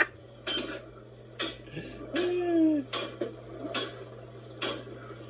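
Scattered metal clanks and clinks of tyre-changing tools working a wheel on a tyre machine, with a short falling squeal about two seconds in. A steady low hum runs underneath.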